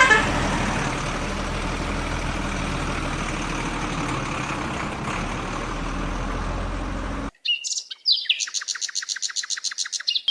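A vehicle engine runs steadily, with a loud pitched burst like a horn right at the start. About seven seconds in the sound cuts off, and a rapid run of high chirps follows, about eight a second.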